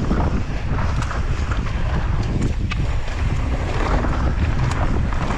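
Heavy wind buffeting a mountain biker's camera microphone on a fast downhill run: a steady low rumble with scattered clicks and knocks from the bike.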